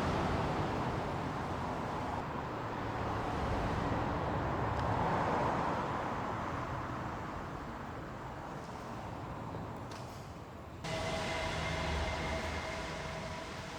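Train running past with a rumble that swells and fades. A little before the end it changes suddenly to a steady whine of several tones over a low hum.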